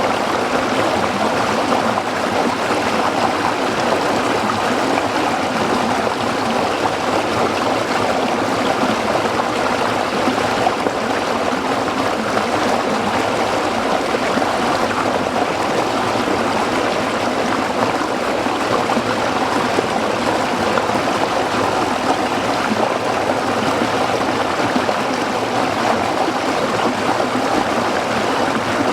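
A small stream running over rocks, a steady, even rush of water with fine trickling and gurgling.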